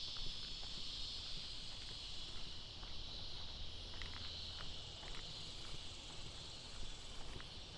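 A steady, high-pitched chorus of insects buzzing, with faint irregular footsteps ticking underneath.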